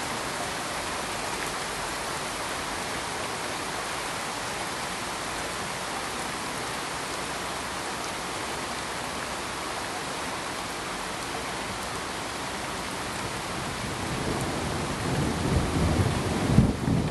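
Steady, even hiss of sleep-aid noise, with a low rumble swelling in about fourteen seconds in and peaking just before the end.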